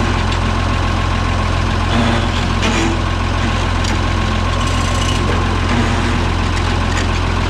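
Cockshutt 1850 tractor engine running steadily at idle while its worn-out clutch is let out; the engine speed does not change or drop, because the clutch no longer takes up the drive.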